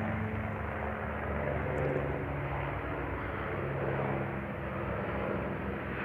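Helicopter flying nearby: a steady drone of engine and rotor with a fast low flutter.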